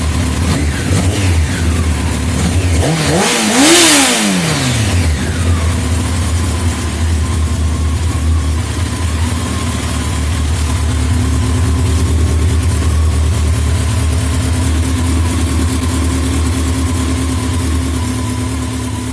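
Honda CBR1100XX Super Blackbird's inline-four on its stock exhaust, idling while still warming up from a cold start. The throttle is blipped briefly near the start, then revved once more strongly about four seconds in, the pitch rising and falling back, before it settles to a steady idle.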